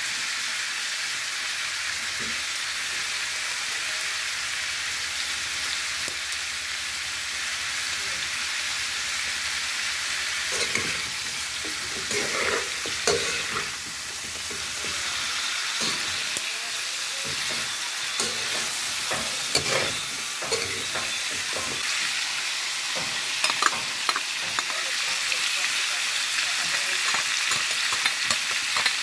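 Chicken feet frying in hot oil in a wok, a steady sizzle. From about ten seconds in, a spatula scrapes and clatters against the wok as they are stirred, the clatter growing busier toward the end.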